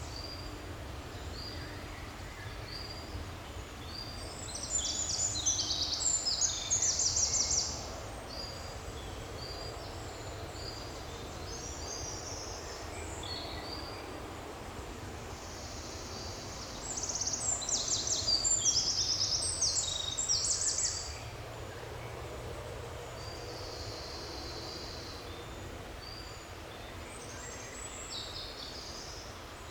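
Forest birds singing: many short high calls throughout, with two louder songs of rapidly repeated notes, one about five seconds in and one about seventeen seconds in, over a steady low rumble of background noise.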